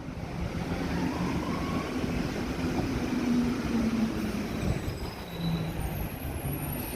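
New York City subway train running through the station, a rail rumble that grows over the first second and holds, with a low hum that shifts slightly in pitch and thin high squeals near the end.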